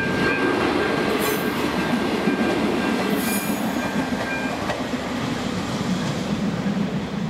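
A passenger train rolls over the level crossing, its wheels clattering with two brief high squeals. The crossing's electronic warning ringer keeps sounding a steady high tone until about four and a half seconds in.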